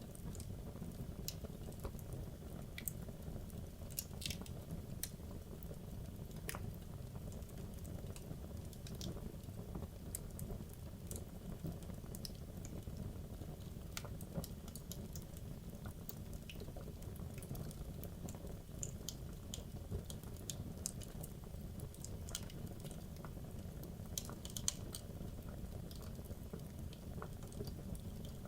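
Wood logs burning in a fireplace: a steady low noise of the flames with scattered sharp crackles and pops at irregular moments.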